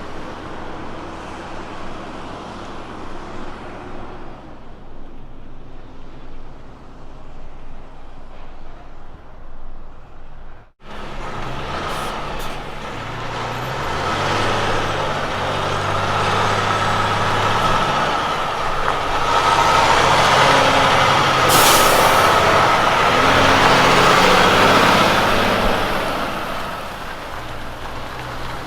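Road train's diesel prime mover running, then after a cut about a third in, another one pulling through gear changes as it comes closer. It is loudest about two-thirds in, with a brief air hiss, then fades as it moves away.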